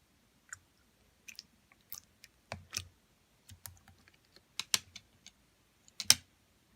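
A series of irregular clicks and taps, some with a dull thump underneath, the loudest near the end.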